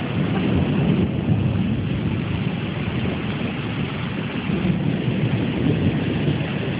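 Thunderstorm heard outdoors: a steady low rumble with a hiss of rain, with no sharp thunderclap.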